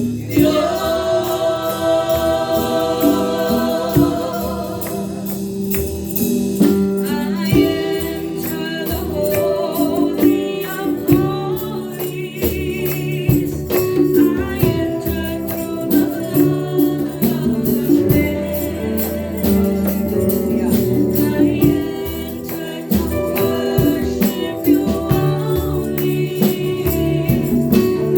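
Christian praise-and-worship song: voices singing over a band, with a steady percussion beat.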